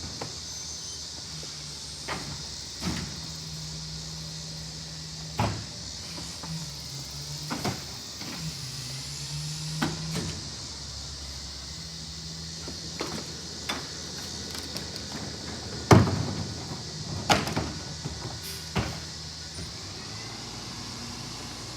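Rear-loader garbage truck running, its low engine hum stepping up and down in pitch, with a series of sharp knocks and bangs as refuse goes into the hopper. The loudest bang comes about two-thirds of the way through.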